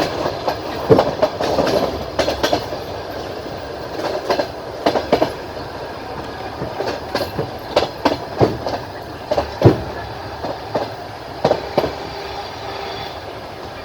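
Passenger train running, its wheels clacking over rail joints: irregular sharp knocks, some in quick pairs, over a steady rolling rumble, heard from inside the carriage.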